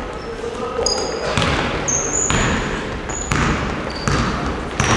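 Basketball bouncing on a gym floor, knocking unevenly several times, with short high squeaks of sneakers on the court.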